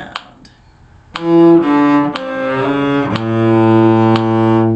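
Cello playing a short descending phrase, E, D, C sharp, down to a long held low A, with a slide into the C sharp. Faint clicks about once a second keep the beat.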